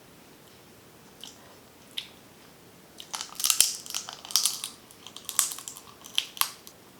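Snow crab shell cracking and crunching as the legs are broken open by hand: two faint clicks, then about three seconds in a dense run of sharp cracks lasting a few seconds.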